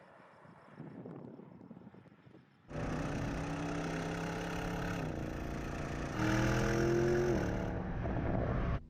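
Porsche Cayenne GTS's twin-turbo V8 running under load. It cuts in suddenly about a third of the way in, its pitch drops twice with a climb in between, and it cuts off abruptly just before the end.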